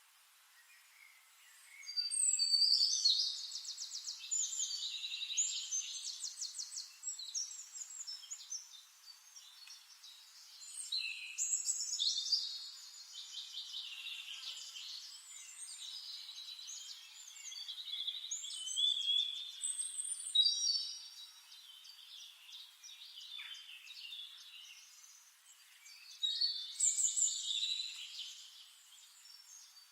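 Songbirds singing: quick, twittering, high-pitched phrases with short lulls between them, the loudest starting about two seconds in and again near the end.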